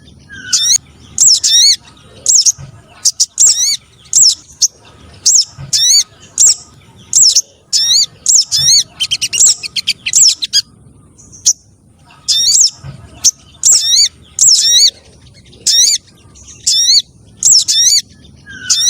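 Spiderhunter (sogon) calls played as a bird-trapping lure: sharp, high, wavering call notes repeated about once or twice a second, with one short pause partway through.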